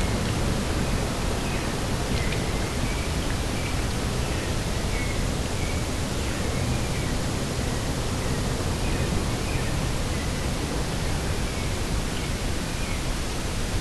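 Steady outdoor wind noise with a strong low rumble, and faint, short high bird chirps repeating about once a second.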